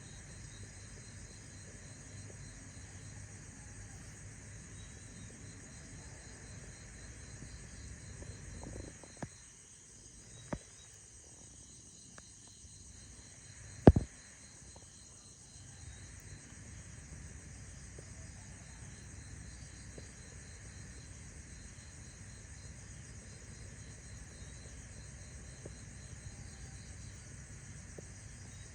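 Insects chirping steadily, a rapid pulsing trill over a constant high hum. Three sharp clicks break in about nine, ten and a half and fourteen seconds in, the last much the loudest.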